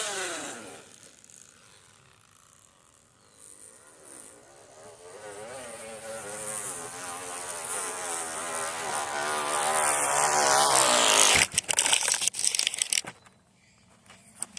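Bicycle with a plastic water bottle rattling against the wheel spokes, making an engine-like buzz. It starts faint, then grows steadily louder as the bike comes closer. A run of sharp clacks about two-thirds of the way in ends it abruptly.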